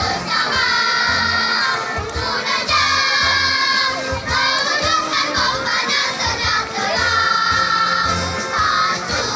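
Children's choir singing loudly together, holding notes that change every second or so, over accompaniment with a steady low beat.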